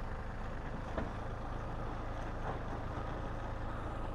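Small single-cylinder engine of a Honda Grom mini bike running at a steady pace while riding, with wind rumbling on the camera microphone.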